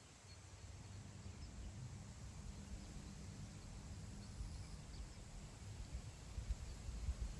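Wind gusting across open grassland, a low rumble that builds toward the end, with a few faint distant bird chirps.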